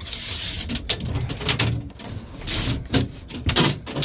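Scraping and rubbing with a series of sharp clicks and knocks as a tape measure is handled and stretched across a fiberglass boat hull. There is a hissing scrape at the start and another a little past halfway.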